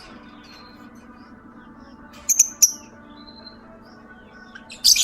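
Lovebird giving short, sharp, high-pitched chirps in two quick clusters, one a little over two seconds in and another near the end, over steady background music.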